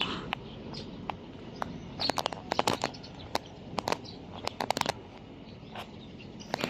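Irregular sharp clicks and knocks, bunched into quick runs about two seconds in and again near the five-second mark, over a low steady background with a few short high chirps.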